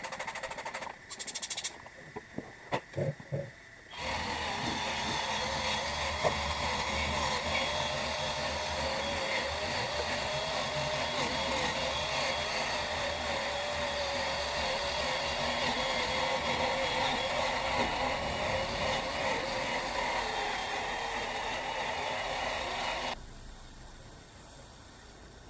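Workpro 12-volt cordless 3-inch sander/polisher running with a 5000-grit disc against a plastic headlight lens. It starts about four seconds in after a few handling clicks, runs steadily with a wavering whine, and cuts off shortly before the end.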